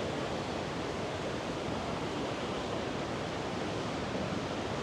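River water rushing steadily over rocks, an even unbroken rush.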